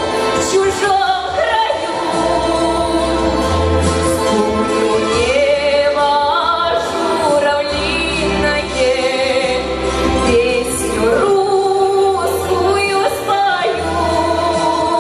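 A woman singing a song with vibrato over instrumental backing with a bass line.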